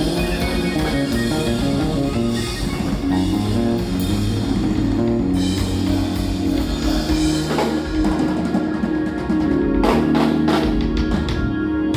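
Live jazz-fusion trio of keyboards, electric bass and drum kit playing the final bars of a tune, with held keyboard chords over the bass and a run of sharp drum hits in the last few seconds.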